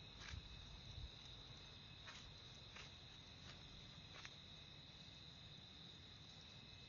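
Insects singing as a faint, continuous high-pitched trill, with a few faint short ticks in the first few seconds.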